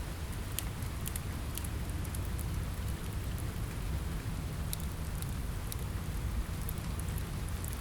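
Steady rain on a window mixed with a crackling fire. Scattered sharp pops and clicks sit over an even hiss and a low rumble.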